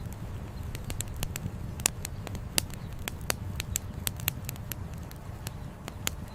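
Wood campfire crackling, with irregular sharp pops of burning firewood several times a second over a steady low rumble.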